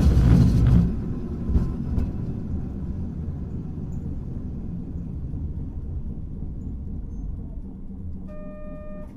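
Running noise of Hankai Tramway tram car 351, heard on board: a loud low rumble for about the first second, then a quieter steady rumble. Near the end a short steady electronic chime tone sounds.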